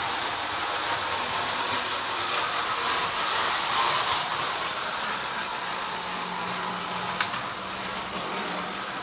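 Marx 1666 toy electric steam locomotive running around the track: a steady whirring hiss of motor and wheels, with one sharp click about seven seconds in.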